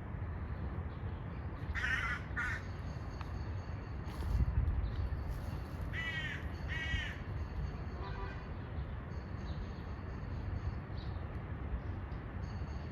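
A bird calling: four short calls in two pairs, about two seconds in and again about six seconds in, with a fainter call just after. A steady low background rumble runs underneath.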